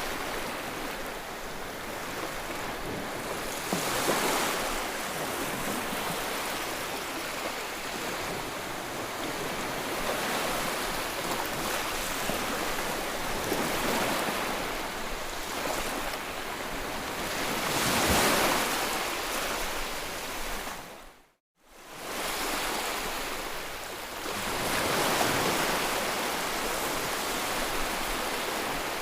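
Ocean waves breaking and washing ashore in slow surges every few seconds, broken once by a sudden brief dropout to silence about two-thirds of the way through.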